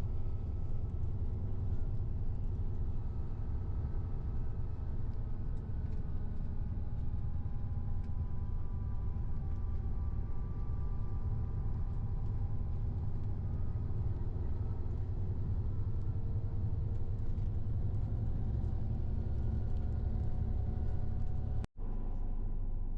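Steady low rumble of a moving vehicle heard from inside its cabin, with faint shifting whine tones above it; it drops out for an instant near the end.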